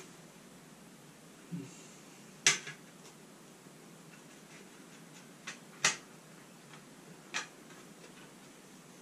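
A handful of short, sharp taps and clicks, a few seconds apart, from a pencil and a shower-valve remodel plate being handled while the plate's outline is marked on the tile.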